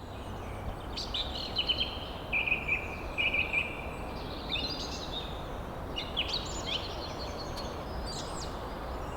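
Wild birds singing: trilled phrases and chirps that come in short runs over a steady background hiss.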